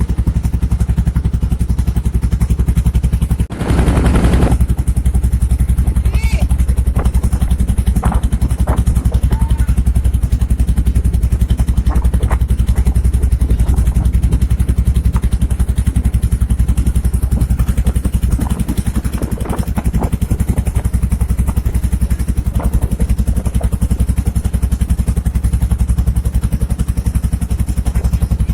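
Small passenger boat's motor running steadily at speed with a fast, even chug, and a brief louder rush of noise about four seconds in.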